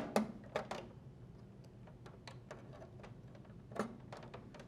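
A few sharp small clicks and lighter taps, most of them in the first second and one more near the end: insulated wire terminals being pushed onto the spade terminals of a GE dryer's start switch and the wires handled.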